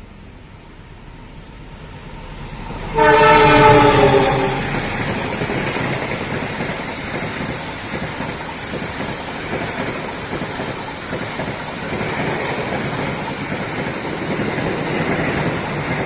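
A train approaches, growing louder, and sounds its horn once, a blast of about a second and a half that drops slightly in pitch, then runs close past with steady wheel-on-rail noise.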